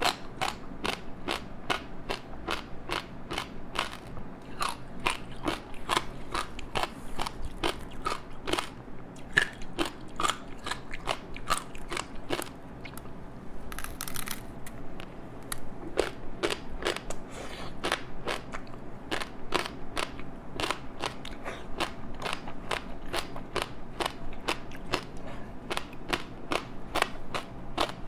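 Close-up biting and chewing of a crispy seaweed-wrapped rice snack: a steady run of sharp crunches and crackles, a few a second, with a short crackling hiss about halfway.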